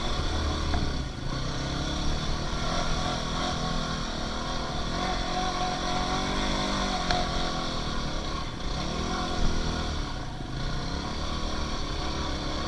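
Dirt bike engine revving up and down several times.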